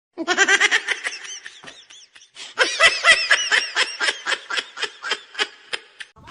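A person laughing in two bouts of quick, high-pitched ha-ha pulses. The second bout is the louder, and its pulses fade and slow towards the end.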